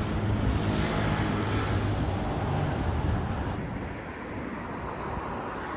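Road traffic: a motor vehicle's engine and tyres passing close, dropping away after about three and a half seconds to a quieter steady traffic hum.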